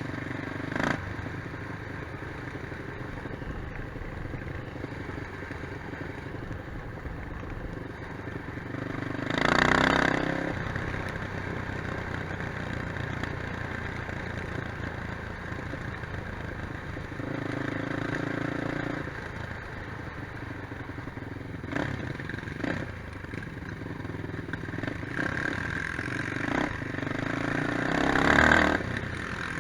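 Quad bike engines running, with louder revving surges about a third of the way in and again near the end.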